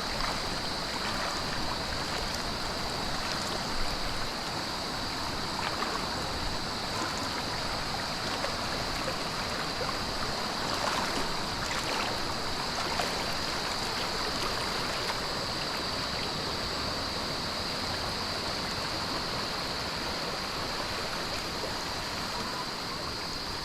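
Stream water rushing steadily, with a steady high-pitched buzz over it.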